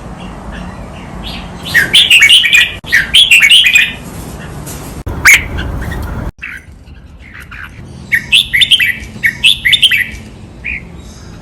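Red-whiskered bulbul singing: two bursts of quick, clear chirped phrases, one about two seconds in and another about eight seconds in, with single notes between and after.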